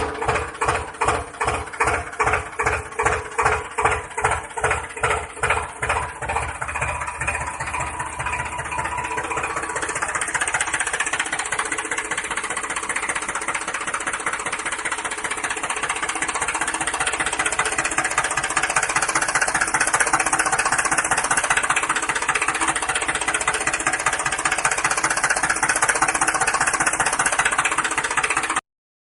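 Tractor engine chugging slowly, the beats speeding up over the first several seconds into a steady running drone, which cuts off shortly before the end.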